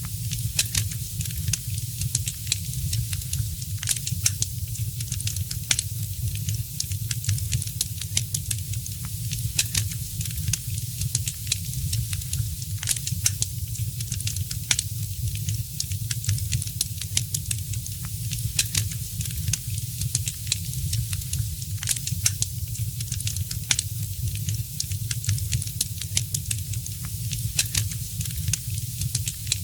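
Wood fire crackling in a fireplace: irregular sharp pops and snaps over a steady hiss and a low rumble.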